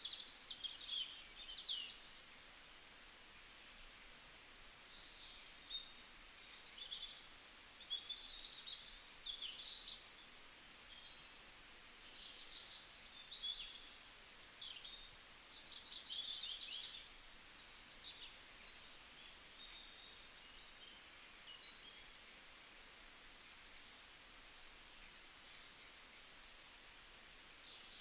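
Wild birds chirping and trilling: many short, high calls of varied shape overlapping one another, over a faint steady hiss.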